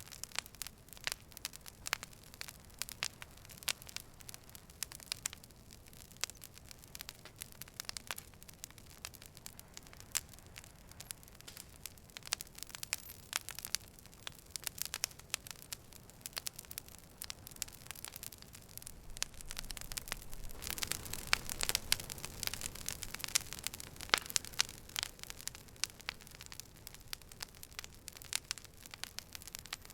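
Campfire crackling, with irregular sharp pops and snaps over a soft hiss; the popping thickens and grows louder for a few seconds about twenty seconds in.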